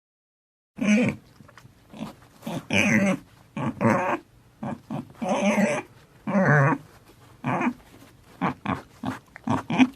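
Pet dog growling in a rapid series of short, pitched growls and grumbles, starting after a moment of silence.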